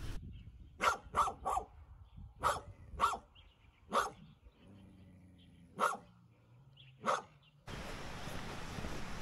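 A dog barking about eight times in short, uneven runs: sharp single barks, a quick triple, pairs, and gaps of a second or more. Near the end a steady background hiss cuts in abruptly.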